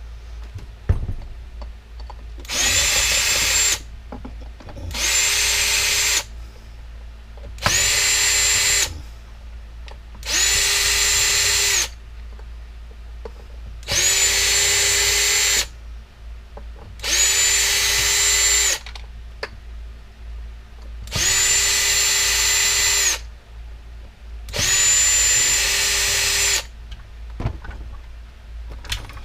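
Power drill-driver backing out screws: eight short runs of a steady motor whine, each one to two seconds long, with brief pauses between them.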